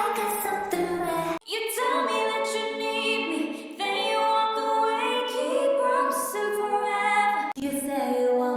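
Female voice singing held and gliding notes. The sound cuts off abruptly about a second and a half in and again near the end, as one sung passage is spliced to the next.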